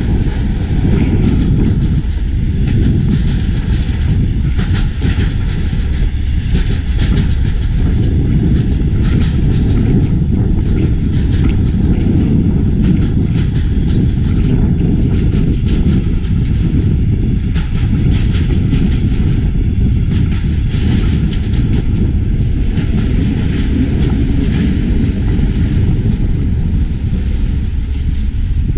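Diesel train running at speed: a heavy, steady rumble with the continuous clickety-clack of wheels over the rails.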